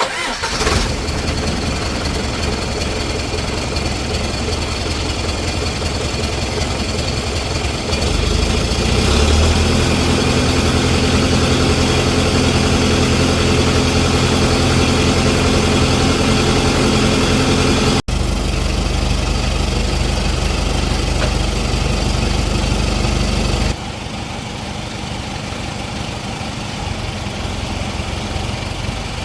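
Heavy-duty truck's diesel engine running steadily, getting louder and deeper about eight seconds in and dropping back in level a few seconds before the end. It is running on test after a new clutch disc and pressure plate were fitted.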